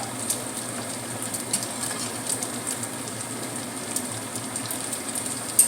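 Tofu frying in hot oil in a pan: a steady sizzle with frequent small pops and crackles.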